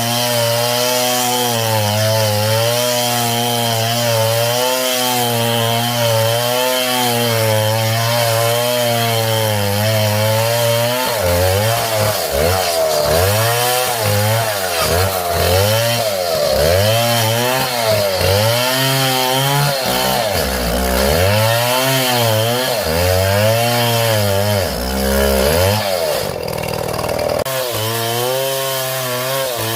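Chainsaw running and cutting into palm wood. Its engine pitch holds fairly steady for about the first ten seconds, then repeatedly rises and sags as the chain bites and is eased off.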